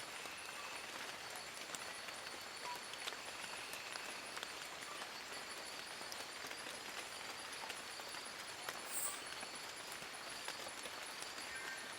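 Rain falling steadily on forest leaves, with many separate drops ticking close by. Faint high steady tones run underneath, and a brief high chirp comes about nine seconds in.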